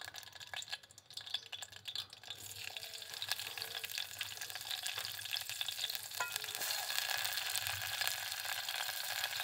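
Green chillies crackling in hot oil in an aluminium pot. About two seconds in, chopped onion goes in and a steady sizzle starts, growing louder.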